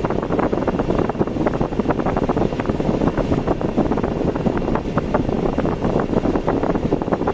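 Steady noise of a car driving on the road, with wind buffeting the microphone in quick, uneven gusts.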